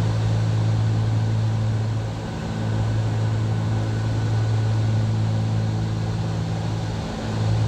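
A Cessna 310Q's two six-cylinder piston engines and propellers droning steadily as heard inside the cabin on final approach, a low even hum that dips slightly twice.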